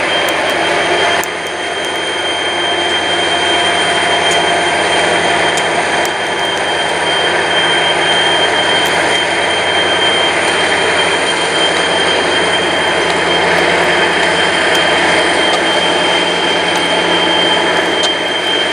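A train rolling past close by, the steady rumble and clatter of railcars on the rails, with a constant high-pitched ringing tone running through it.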